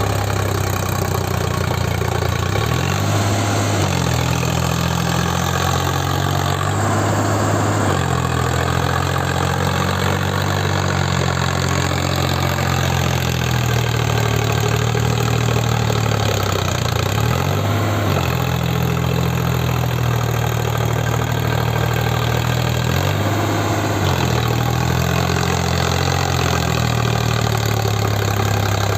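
Sonalika 50 hp 4WD tractor's diesel engine running hard, its pitch dipping and climbing again a few times as the revs change.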